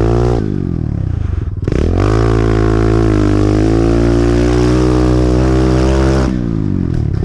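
Pit bike engine being ridden: the revs fall off shortly after the start and cut briefly, then it opens up and holds high revs for about four seconds before easing off near the end.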